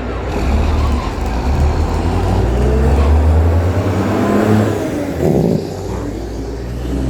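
Diesel race trucks' engines under hard acceleration down a drag strip: a loud, deep engine rumble with pitch rising as they pull away.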